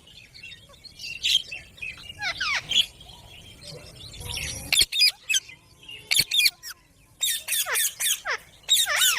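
Pet rose-ringed parakeets squawking: a run of short, harsh calls that fall in pitch, coming thicker and faster in the second half.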